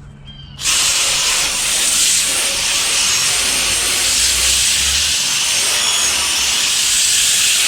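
Garden hose spraying water onto an air conditioner condenser coil: a loud, steady hiss that starts about half a second in and cuts off near the end.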